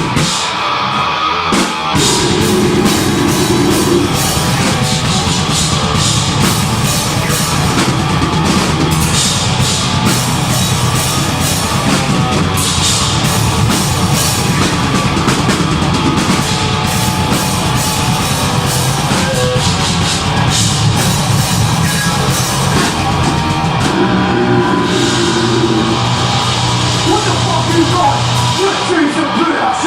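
Deathgrind band playing live: distorted electric guitars and bass over drums, the full band coming in about two seconds in.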